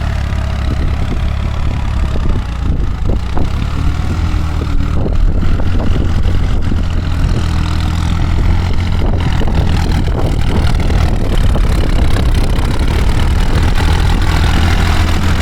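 JX50T tractor's diesel engine running steadily, with scattered short knocks and clunks in the middle stretch.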